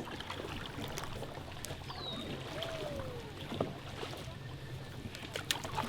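Quiet kayaking sounds on a lake: water against a plastic kayak hull and paddle, with a few light knocks. A short high falling squeak comes about two seconds in.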